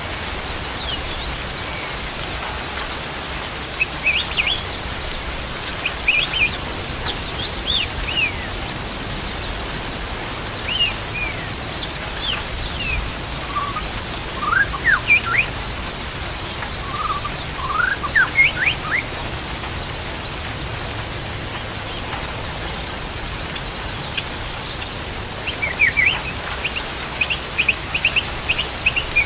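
Songbirds calling in short chirps and quick up-and-down whistles, in scattered clusters with the busiest spell near the end, over a steady hiss like rain or running water.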